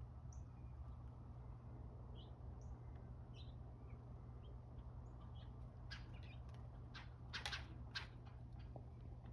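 Small birds giving short, high chirps every second or two, with a cluster of sharp taps and clicks about six to eight seconds in, over a steady low hum.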